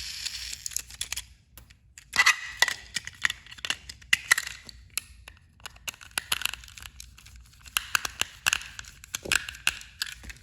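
A steady hiss cuts off within the first second, then come irregular sharp clicks, snaps and crackles of a small plastic battery-powered toy train engine being handled.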